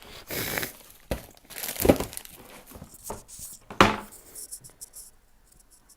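Crinkling of foil snack-chip bags being handled, with two louder sharp knocks about two and four seconds in.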